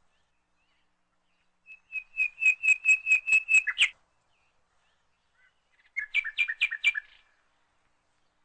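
Bird chirping: a quick run of high, repeated chirps, about six a second for two seconds, then after a pause a second, shorter run of chirps.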